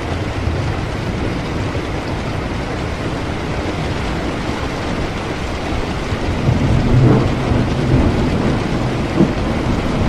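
Steady heavy rain, with a low rumble of thunder building about two-thirds of the way in and a sharp crack near the end.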